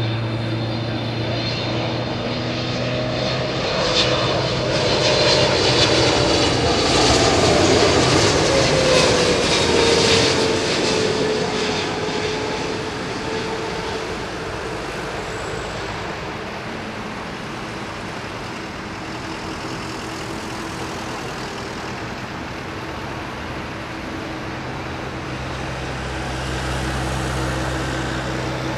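Boeing 777-300ER jet airliner's GE90 turbofan engines passing close by. The sound swells to its loudest about a third of the way in, with a whining tone that slides down in pitch as the aircraft goes past, then eases to a steady lower rumble as it moves away.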